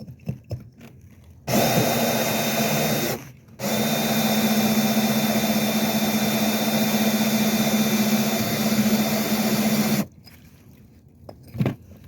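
Power drill with a diamond bit grinding a hole into the bottom of a ceramic bowl, wetted under running water. It starts about a second and a half in, stops briefly after about three seconds, then runs steadily at an even pitch until it stops near ten seconds.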